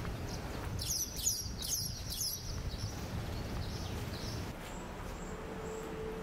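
A bird chirping: four quick calls, each sliding down in pitch, about a second in, then a few fainter ones, over a low steady outdoor rumble. A faint steady hum comes in near the end.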